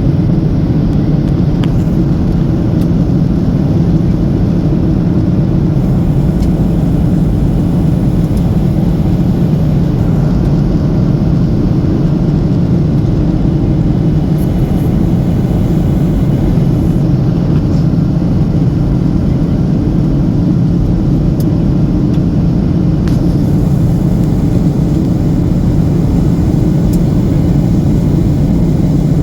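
Cabin noise inside a Boeing 737-800 descending to land: the steady, low noise of its CFM56 jet engines and the air rushing past the fuselage, even and unchanging.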